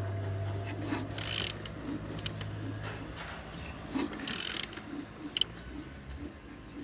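Engine being turned over by hand with a wrench on the crankshaft: rhythmic rubbing, ratchet clicks and soft thuds about twice a second as the pistons come through compression. The engine turns freely with compression on all cylinders. A steady low hum runs underneath and stops about three seconds in.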